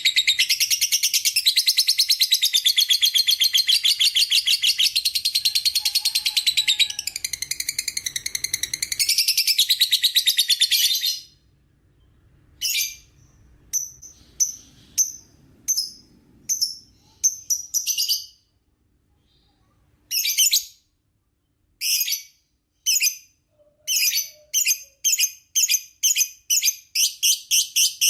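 Lovebird singing its long chattering 'ngekek': a rapid, high-pitched trill that runs unbroken for about eleven seconds. It then breaks into short separate bursts, stops briefly, and comes back in quickening bursts that run together into an unbroken chatter again near the end.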